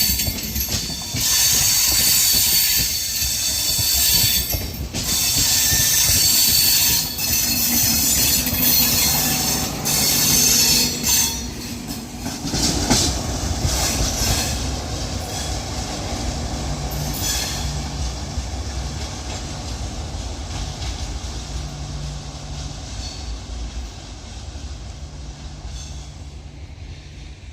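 A train running past on the rails. It is loud for about the first twelve seconds, with several brief dips, then the rumble fades steadily as it moves away.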